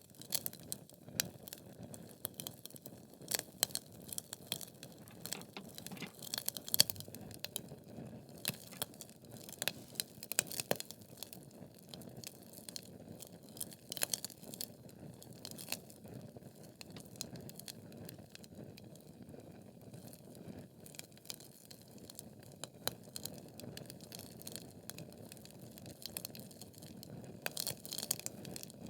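Wood fire burning in a fireplace: logs crackling with many sharp pops and snaps over a low steady rumble of flame, the pops thicker in the first half and again near the end.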